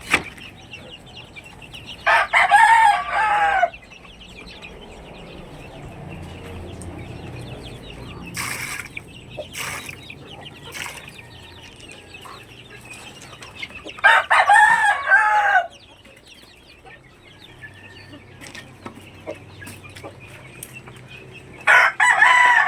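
Backyard rooster crowing three times, each crow about a second and a half long: about 2 seconds in, near the middle and at the end. Hens cluck quietly between the crows.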